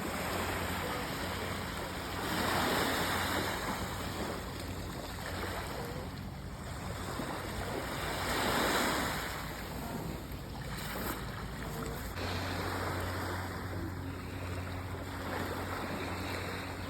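Sea waves washing onto a sandy beach, with two larger waves breaking about two and eight seconds in, under a steady low hum.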